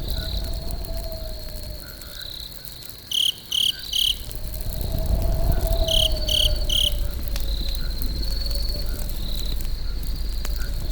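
Crickets chirping in a steady high trill, with two groups of three loud sharp chirps, over the low rumble and faint crackle of a wood campfire.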